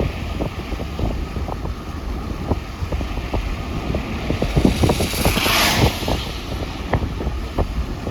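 Car rolling on wet ground in the rain: a steady low rumble with many scattered ticks and taps, and a hiss that swells and fades about five seconds in.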